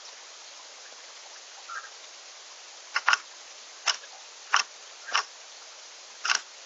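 Sharp clicks and taps at a backyard bird feeder, about six of them in the second half, over a steady hiss.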